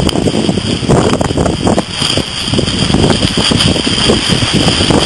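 Strong hurricane wind buffeting the camera microphone in irregular gusts, with heavy surf rumbling beneath.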